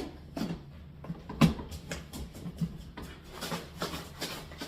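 Irregular light knocks, clicks and rustles of a container and the powdered laundry detergent ingredients inside it being handled, with one sharper knock about a second and a half in.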